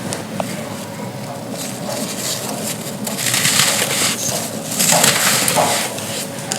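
Dry pressed-sand chunks crumbling and crunching with a crisp crackle, swelling into several louder crunching spells.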